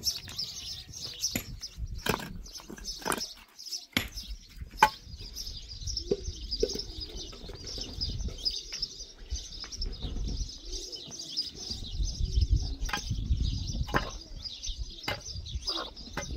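Birds chirping continuously, with scattered clicks and knocks throughout and low rumbling that swells past the middle.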